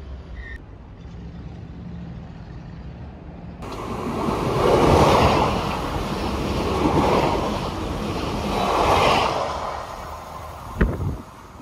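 A train passing close by: a loud rushing noise of wheels and air that comes in suddenly a few seconds in, swells three times about two seconds apart and then fades, followed by a single sharp knock near the end.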